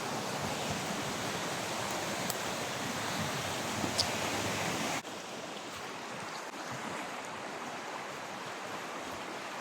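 River water rushing steadily. About halfway through, the rush cuts abruptly to a quieter level.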